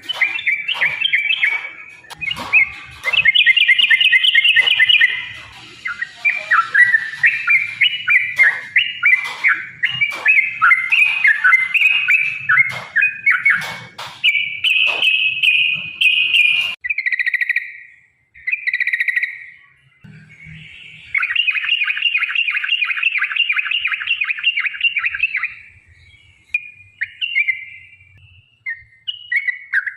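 Yellow-vented bulbul (trucukan) song in long, rapid, bubbling chattering phrases, with many sharp clicks through the first half. It cuts off abruptly just past the middle, then resumes in shorter phrases, with a fast trill and a few short notes.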